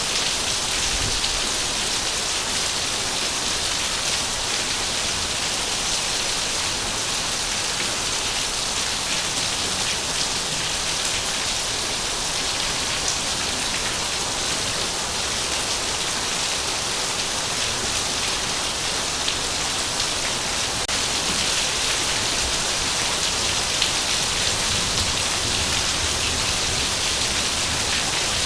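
Heavy rain falling steadily, a dense, even hiss of drops striking a surface.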